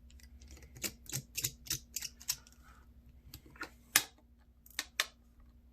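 Irregular small clicks and taps, about a dozen, the sharpest about four seconds in, from a small Phillips screwdriver working the tiny screws of a metal shield on a flip phone's circuit board. A faint steady hum sits underneath.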